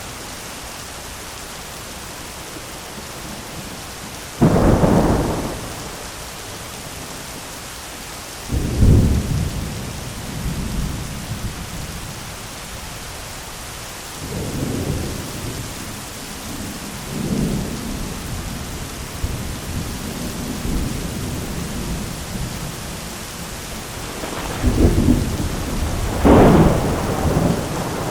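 Steady rain with thunder: a sudden loud clap about four seconds in and another about four seconds later, lower rumbles in the middle, and two more loud claps near the end.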